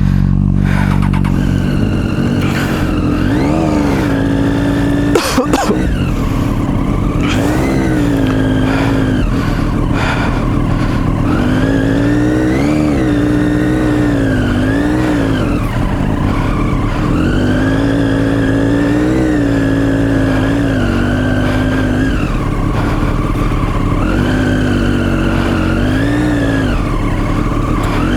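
Motorcycle engine revving up and down over and over, its pitch rising and falling in repeated surges, as the bike struggles through mud off-road. There is one sharp clack about five seconds in.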